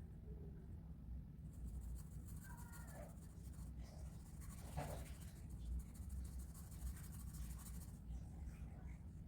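Rapid scratching strokes of colouring on paper, starting about a second and a half in and stopping near the end, over a faint steady low hum.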